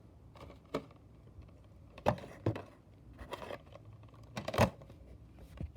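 Packaged diecast cars being handled: several separate plastic clicks and knocks, sharpest about two seconds in and again past the middle.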